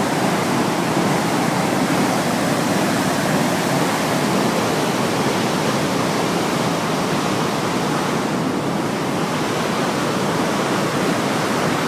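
Lower Sunwapta Falls, a waterfall, rushing steadily: a dense, even rush of falling water with no breaks.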